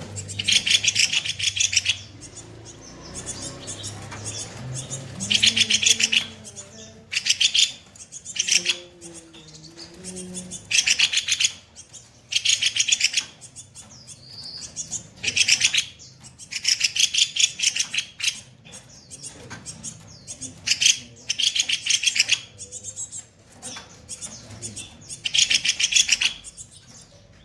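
Kopi-kopi songbird calling in harsh bursts, each a rapid rattling train of high notes lasting one to two seconds, repeated every couple of seconds.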